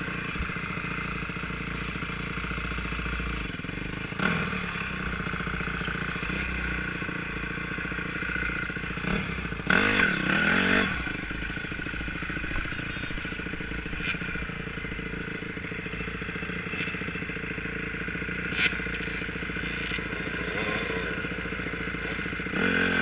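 Enduro motorcycle engine running steadily at low revs, with a brief louder rev about four seconds in and a louder, wavering stretch around ten seconds in.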